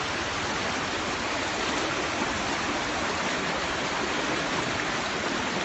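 Fast-flowing floodwater rushing, a steady even roar.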